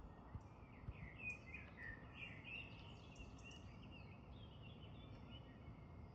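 A bird singing faintly in short chirping, warbling phrases that fade out after about four seconds, over a low, steady outdoor rumble.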